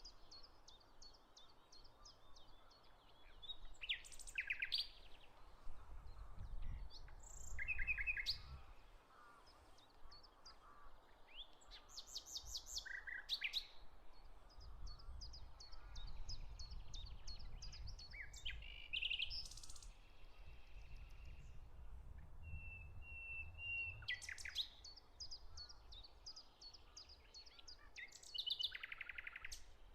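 Several small songbirds chirping and trilling in quick, repeated phrases, with a low rumble swelling underneath at times.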